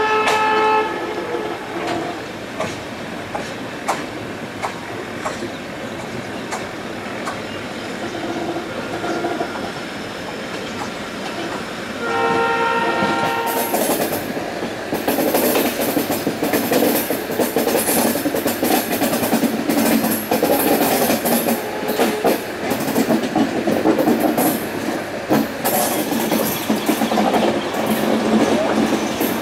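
A moving passenger train heard from an open coach doorway. A horn blast ends about a second in, under a steady rumble and clatter of wheels on rail. A second horn blast of about a second and a half comes about twelve seconds in. After it the wheel clatter and wind rush grow louder, with rapid sharp clacks.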